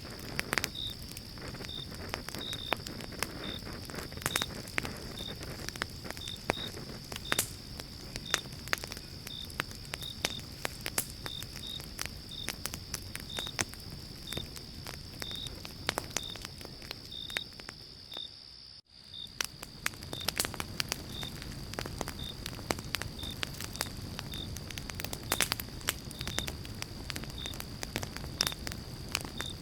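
Campfire of pine logs burning, with frequent sharp crackles and pops over a steady low rumble. Behind it runs a steady high insect drone, with crickets chirping at regular intervals. The sound cuts out for an instant about two-thirds of the way through.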